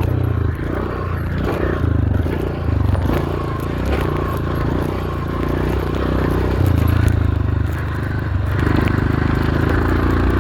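Dirt bike engine running hard around a motocross track, its note changing several times as the rider shifts, with a scratching, rattling noise over it that comes with shifting at speed and which the rider calls nothing to worry about.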